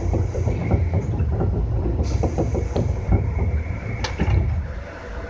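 Cab noise of a JR West 201-series electric train: a steady low rumble with irregular knocks and rattles, and one sharper knock about four seconds in.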